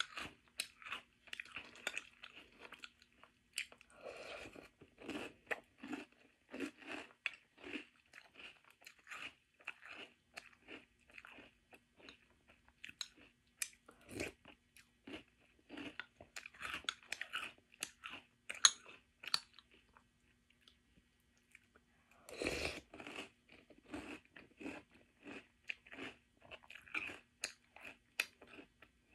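Close-up chewing and crunching of French Toast Crunch, a crisp sweetened corn cereal, eaten by the spoonful in a run of short crunches. The crunching pauses briefly about two-thirds of the way through, then comes back with one louder noisy burst.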